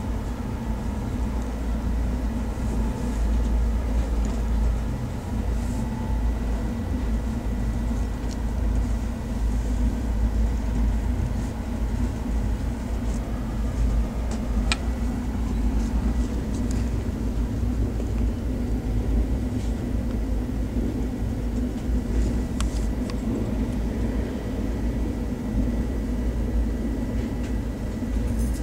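Passenger express train running at speed, heard from inside a coach at an open window: a steady low rumble of wheels on track, with a few short sharp clicks about halfway through and again later.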